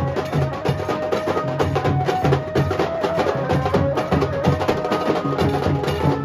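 Nasik dhol-tasha drumming: fast, dense strikes over deep dhol beats, with a sustained melody line of changing pitch from a melodic instrument above the drums.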